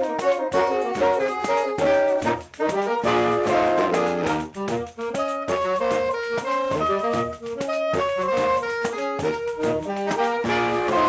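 Saxophone quartet playing a lively piece in several-part harmony, the notes short and quick, over a steady pattern of percussion hits.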